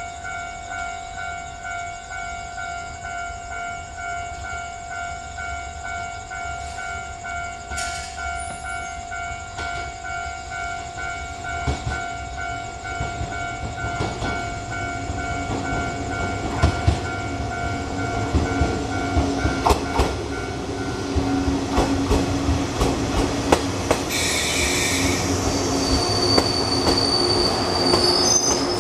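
Electric train running into a station platform: wheel rumble and clacking over the rail joints grow louder, then brakes squeal near the end as it slows. Before it arrives a steady pulsing warning tone sounds, dying away about halfway through.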